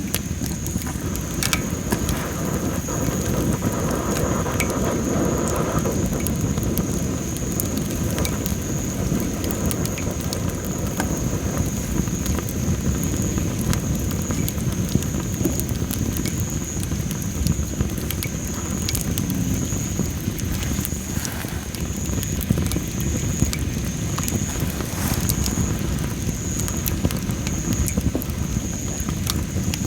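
Well-dried masaki (Japanese spindle tree) firewood burning in an open fire, crackling with frequent sharp pops over a steady low rush of flames. A steady high-pitched tone runs underneath.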